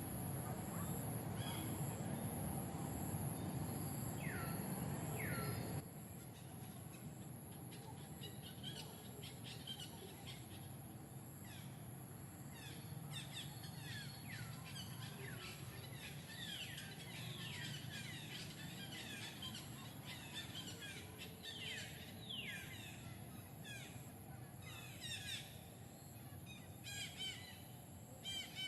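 Birds chirping outdoors in many short, quick falling notes, often in clusters and busier toward the end. For the first six seconds a steady low noise lies under them and then cuts off abruptly.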